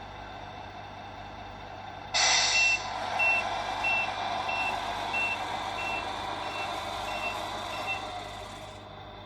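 Simulated truck sounds from a Tamiya Mercedes-Benz Actros RC truck's sound unit: over a steady engine sound, a loud air-brake hiss about two seconds in, then a reversing beeper sounding about nine times, roughly one and a half beeps a second, stopping shortly before the end.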